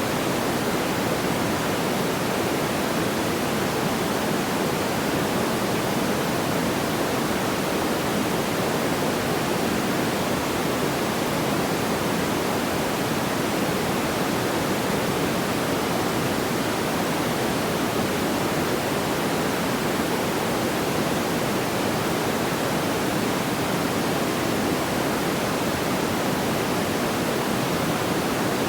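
Steady, even rushing noise, like pink noise, heaviest in the low-middle range, with no crackles or pops and no change throughout.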